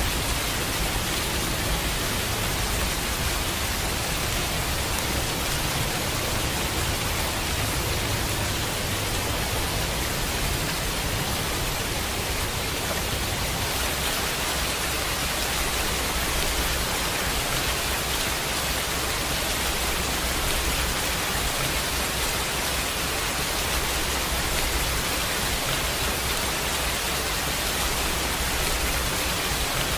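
Steady heavy rain, a dense even hiss with no single drops standing out, over a low rumble that swells and fades several times.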